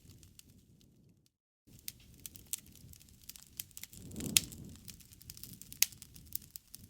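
Campfire burning with a steady scatter of small crackles over a soft low rumble of flame, and two sharp pops about four and six seconds in. The sound drops out completely for a moment about a second in.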